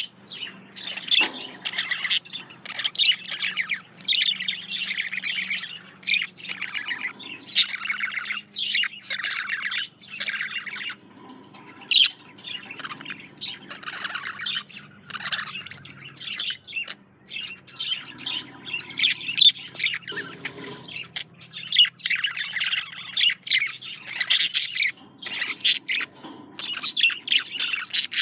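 Budgerigar warbling and chattering, an unbroken stream of short chirps, clicks and squawks: a male's courtship song to a female.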